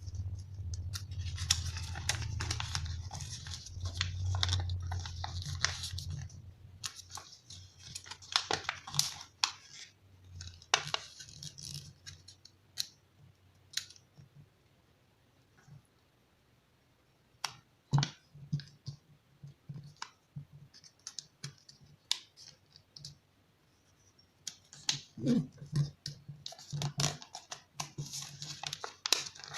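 A sheet of origami paper being folded and creased by hand: irregular rustling and scraping with sharp clicks and taps, busiest at the start and near the end, with a quieter lull around the middle.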